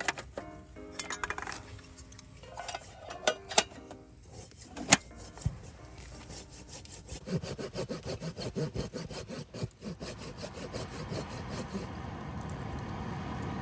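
A few sharp wooden knocks, then a hand saw cutting through wood in quick, even back-and-forth strokes for several seconds. Near the end the strokes blur into a steadier rasp.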